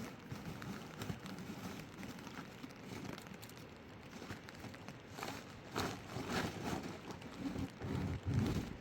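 Steady patter of rain, with a few louder irregular noises in the second half.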